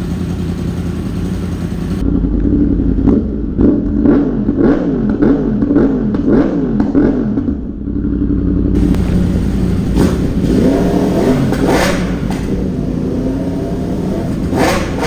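2023 Yamaha R1's crossplane inline-four, breathing through an M4 link pipe and SC Project muffler, idling warm and then revved over and over. About two seconds in come a quick run of throttle blips whose pitch rises and falls with each one, then longer revs, with a few sharp exhaust cracks, one near the end.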